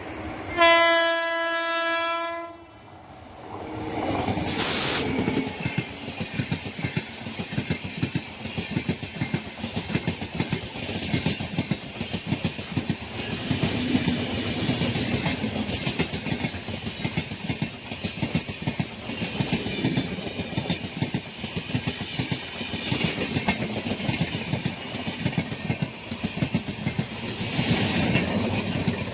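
A WAP-4 electric locomotive's horn sounds one steady blast of about two seconds. Then comes the rhythmic clickety-clack of ICF coach wheels running over rail joints at speed.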